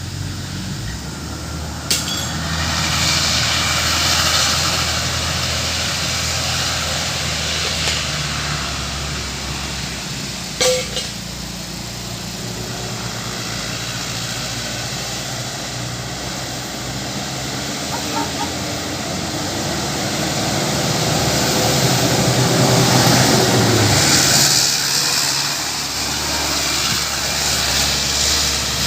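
Road traffic with heavy trucks going past, their diesel engines running. The engine pitch rises to the loudest pass about 22 to 24 seconds in, then falls off suddenly. Two sharp clicks come about 2 and 11 seconds in.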